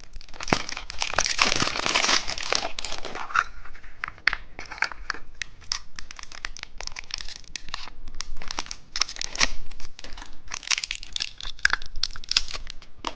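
Plastic candy packaging crinkling and tearing as a surprise-egg candy is unwrapped by hand, with a dense run of irregular crackles and snaps.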